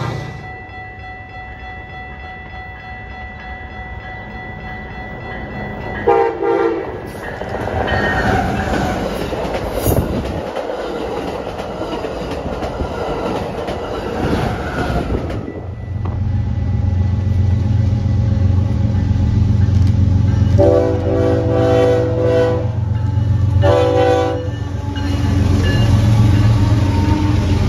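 Diesel locomotive horn sounding a short blast, then the rumble and rush of a passing train. After that a locomotive's diesel engine drones steadily, and its horn sounds one long blast and then a short one.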